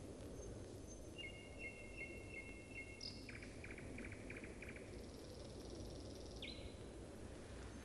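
Songbirds singing faintly over the steady hiss and hum of an old optical mono film soundtrack: a phrase of repeated two-note whistles, then a quick run of notes, a high trill and a sharp slurred call.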